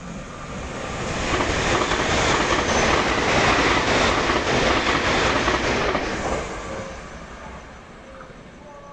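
Taiwan Railway train passing at high speed: a rushing rail noise that swells over a second or so, holds for several seconds, then fades as the train goes by.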